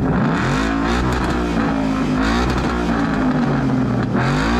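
A car engine being revved repeatedly, its pitch climbing and dropping back several times.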